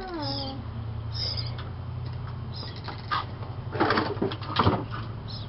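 A baby bird's short, high cheeps, several times, with a falling call at the start, over a steady low hum. A cluster of knocks and rustles comes about four seconds in.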